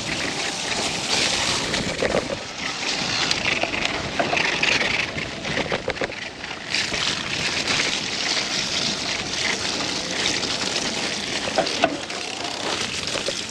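Mountain bike riding down a muddy trail: steady wind rush over the microphone with tyre noise and frequent small rattles and clicks from the bike.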